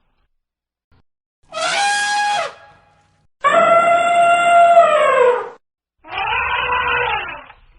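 Three separate animal calls, each a second or two long. The middle call is the loudest and longest, holding one pitch and then dropping at its end.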